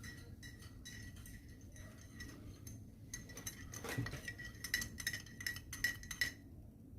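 Metal spoon clinking repeatedly against a glass, each clink leaving a short ring. The clinks come quicker and louder from about three seconds in and stop a little past six seconds.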